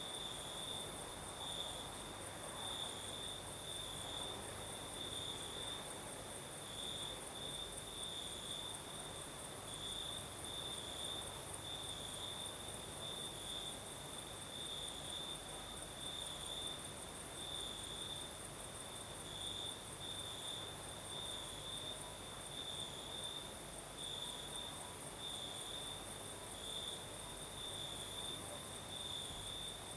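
Crickets chirping in a steady night chorus: a high trill that swells in even pulses about once a second, over a fainter, higher insect hiss. A soft, even haze of light breeze lies underneath.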